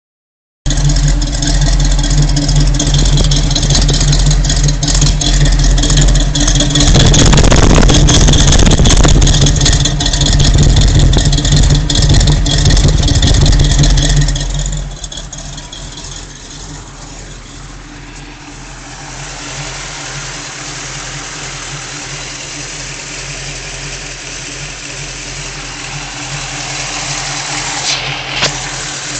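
Vehicle engine idling roughly, which the owner posts as a rough idle. It runs loud for about the first half, then drops suddenly to a quieter steady idle about halfway through, with a brief sharp click near the end.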